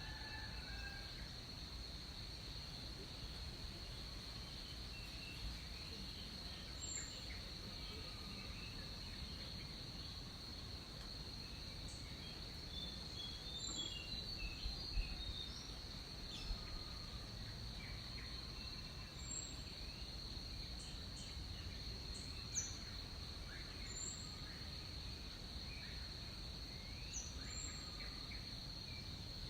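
Tropical rainforest ambience: a steady high-pitched insect drone, with scattered short bird chirps and calls over it.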